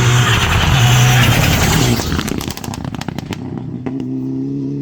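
Rally car engine at full throttle passing close by, loud for about two seconds, followed by a rapid series of sharp cracks and then a steadier, quieter engine note near the end.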